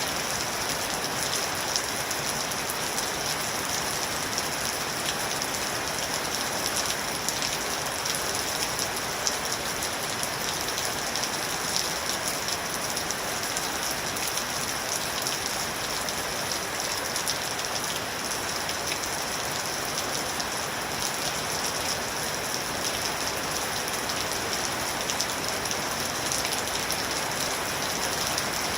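Steady rain falling, an even patter of many drops hitting a surface, with fine drop ticks throughout.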